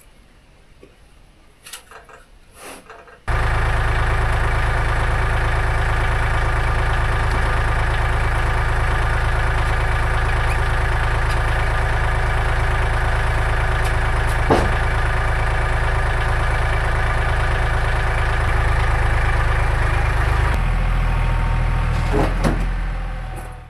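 An engine running at a steady speed, cutting in suddenly a few seconds in. Near the end its note drops and it winds down and stops.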